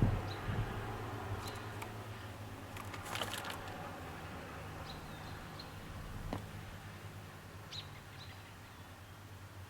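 Birds chirping outdoors: scattered short, high chirps a second or so apart, over a steady low hum, with a brief patch of clicks and scuffling about three seconds in.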